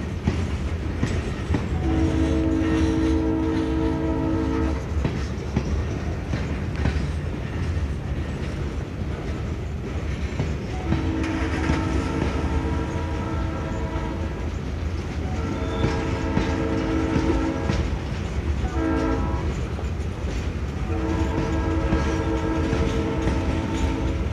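Freight train of covered hopper cars rolling past, a steady rumble with wheels clacking over the rail joints. A locomotive's multi-chime air horn sounds one long blast about two seconds in, then, after a pause, long, long, short, long: the grade-crossing signal.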